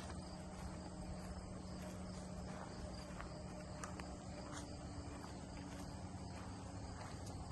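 Steady chirring of insects, crickets or the like, in a pine forest, with a few faint scattered ticks and a low steady hum underneath.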